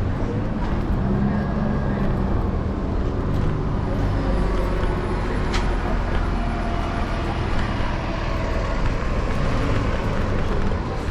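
City street traffic and road noise heard while riding an electric scooter: a steady, loud low rumble, with one sharp click about halfway through.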